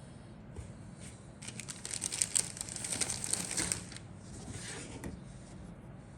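Packaging crinkling as the contents of a plastic model kit box are handled, loudest from about a second and a half to four seconds in, with a fainter rustle near five seconds.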